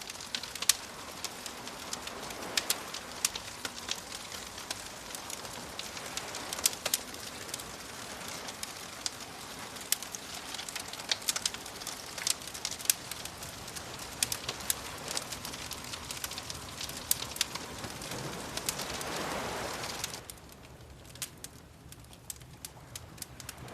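Wood fire crackling with frequent sharp pops, over a soft wash of sea waves that swells and fades. The wave sound drops away about twenty seconds in while the crackling goes on.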